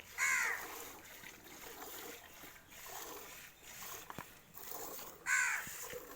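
Two short, harsh caws from a crow, one near the start and one about five seconds later. Between them is a soft, rhythmic swishing, fitting milk streams squirting into a pail during hand-milking.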